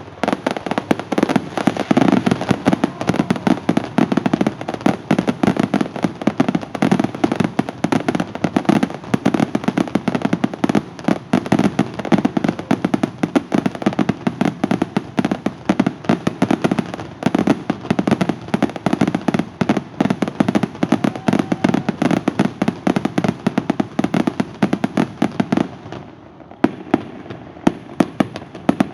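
Fireworks display with many shells bursting in rapid, overlapping succession, thinning to a few separate bangs near the end.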